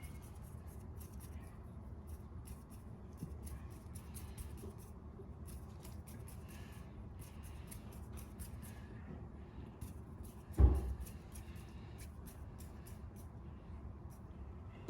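Light scratchy clicks and rustles of small movements close to the microphone, over a low steady rumble, with one loud low thump about ten and a half seconds in.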